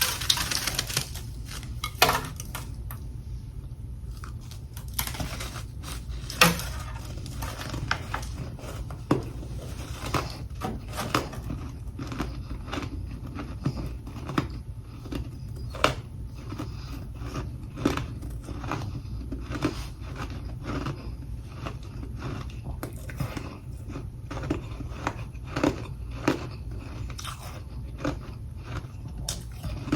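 Close-miked biting and chewing of freezer frost chunks: a continual run of crisp crunches with a few louder bites, over a steady low hum.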